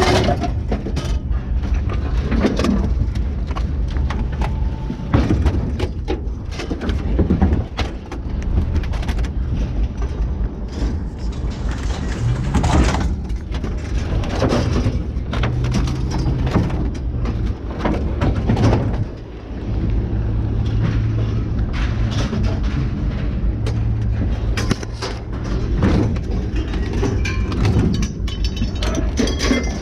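Scrap metal clanking and knocking, piece after piece, as it is unloaded, over a steady low engine hum.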